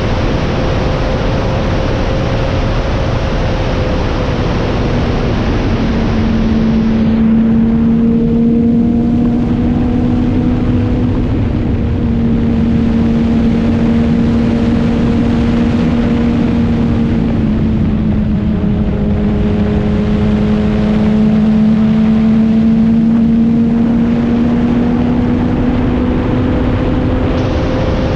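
Motorcycle engine running at a fairly steady speed while being ridden, its pitch drifting gently up and down, with wind noise on the microphone. The wind is heavy at first, eases about seven seconds in so the engine hum stands out, and picks up again near the end.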